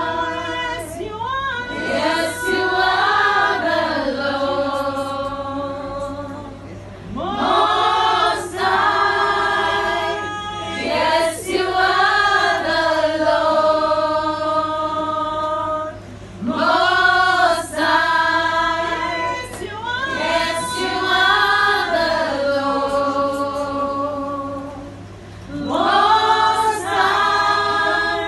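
A group of women singing together in chorus. The sung phrases have long held notes and repeat every several seconds, over a steady low hum.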